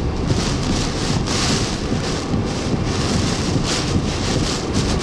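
Hurricane Ian's eyewall winds gusting with heavy rain: a hiss that swells and fades every second or two over a steady low rumble.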